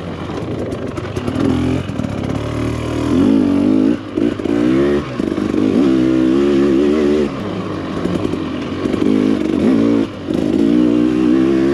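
Two-stroke Husqvarna enduro dirt bike engine revving up and down while riding a trail, with brief throttle-offs about four, five and ten seconds in. A light clatter runs under it.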